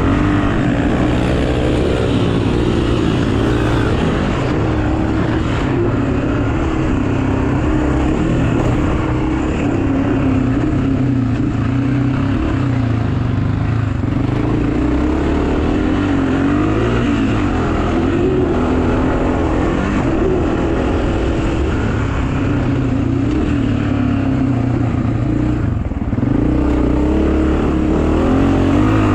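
Pit bike engine running continuously, its pitch rising and falling with the throttle.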